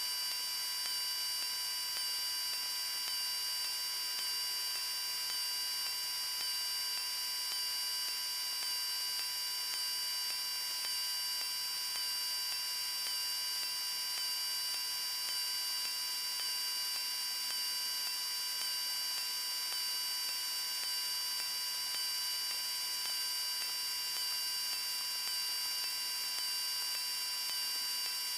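Steady hiss with several constant high-pitched whining tones and hardly any low rumble: the in-flight audio of a Cessna 172M between radio calls.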